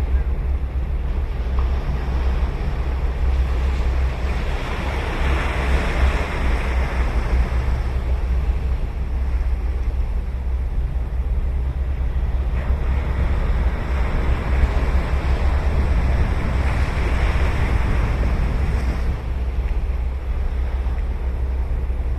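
Ocean surf breaking and washing up a sandy beach: two waves swell and fade, one about four seconds in and another from about twelve seconds in. A steady low wind rumble on the microphone runs under them.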